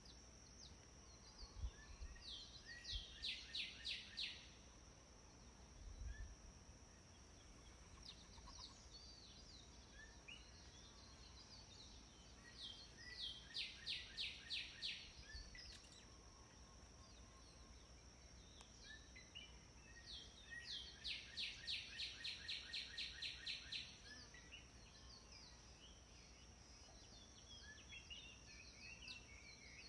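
A bird singing a phrase of rapid, evenly repeated notes, about four a second, three times with long pauses between, over a steady thin high tone and faint low background noise.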